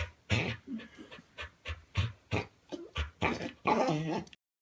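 Dog panting in quick, even breaths, about three a second. Near the end comes a longer, louder pitched sound, and then the sound cuts off abruptly.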